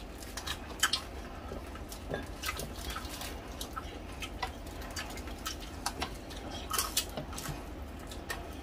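Close-up eating sounds: chewing and crunching of crispy deep-fried pork hock skin, with many irregular small clicks and smacks.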